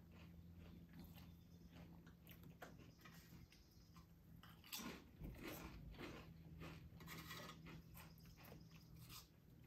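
Faint crunching and chewing of Takis corn tortilla chips: many irregular short crunches, one louder crunch about five seconds in.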